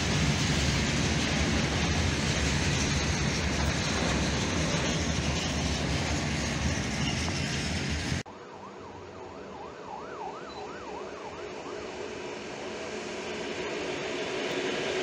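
Freight train of open coal wagons running past on the rails, a loud, steady rumble that stops at a cut about eight seconds in. After it, a siren wails up and down for a few seconds while an EN57 electric multiple unit approaches, its sound growing steadily louder.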